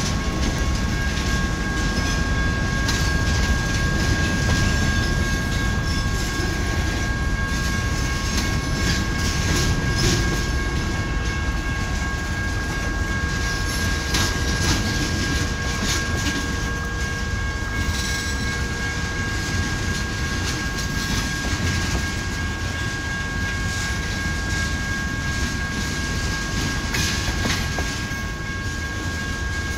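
Slow freight train cars, covered hoppers and tank cars, rolling past close by with a steady rumble and wheels clicking and clattering over the track. A thin, steady high-pitched tone sounds alongside.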